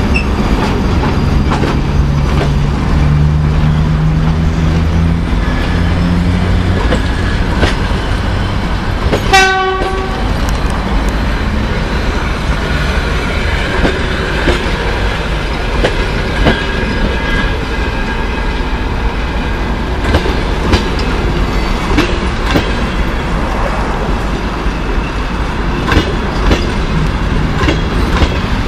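EP1M electric locomotive pulling away with a low hum that rises slightly in pitch over the first several seconds, then fades. Passenger coaches roll past with wheels clicking over the rail joints over a steady rumble. A short, loud horn blast sounds about nine seconds in.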